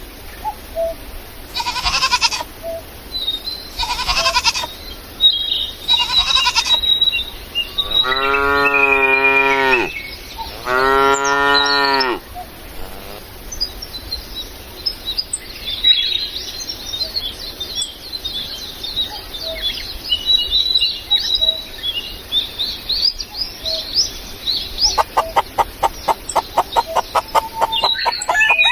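Cow mooing twice, two long calls about 8 and 11 seconds in, after three short hoarse calls in the first few seconds. Birds chirp through the middle, and a rapid run of pulses comes near the end.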